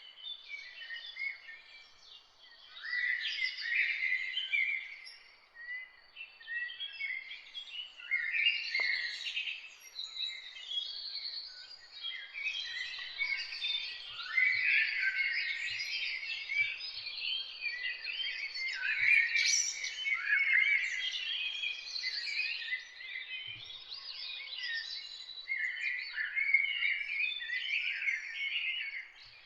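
Many songbirds singing and chirping at once: a dense, overlapping chorus of quick high chirps and trills that thins briefly about five seconds in.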